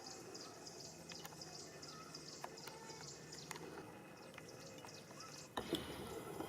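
Faint outdoor background full of short, high chirps, with a brief rustling or handling noise about five and a half seconds in.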